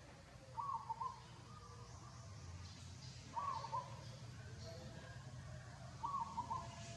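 An animal calling three times, short matching calls about every two and a half to three seconds, over a faint steady low hum.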